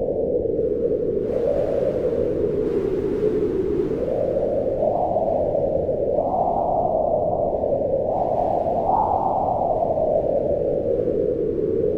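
Wind gusting in a steady rush, a moaning band of noise whose pitch swells and sinks with the gusts and climbs highest twice after the middle.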